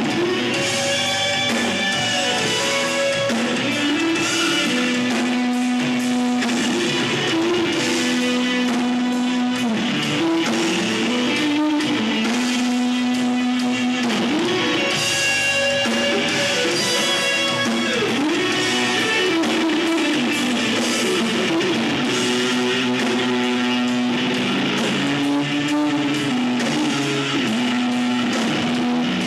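Live rock band music with electric guitar to the fore, playing held notes that bend up and down in pitch.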